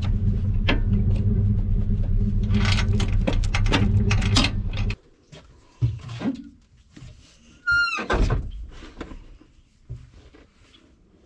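Vehicle engine idling steadily, then switched off about five seconds in. A few knocks and clicks and one short squeak follow.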